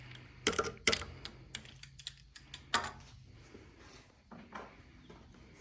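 Irregular light clicks and a few sharper knocks of boards and clamps being handled during a tabletop glue-up. The clicks are thick in the first three seconds, with the loudest knocks about half a second in, a second in and near three seconds, then thin out.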